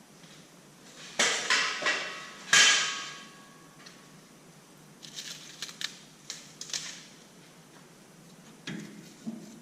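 Metal tools and parts being handled and set down: a quick run of knocks and clanks, the loudest about two and a half seconds in with a short ring, then lighter clatter twice more.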